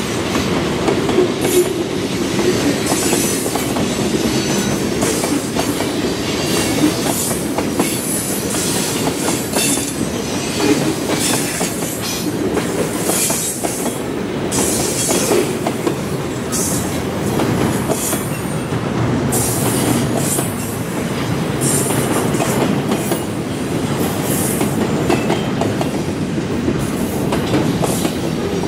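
Freight train cars rolling past, wheels clacking over the rail joints, with short high-pitched wheel squeals coming and going throughout.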